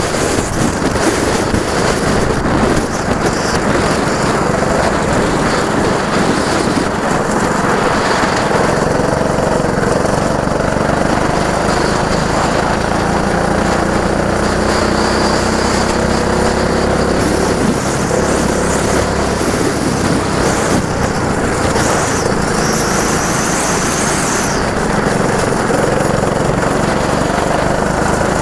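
Go-kart engines running on the track, their pitch rising and falling as they rev up and ease off, over a steady loud rumble.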